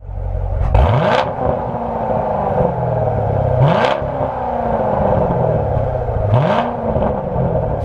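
C7 Corvette V8 revved three times through its exhaust. Each rev climbs sharply and then sinks slowly back toward idle.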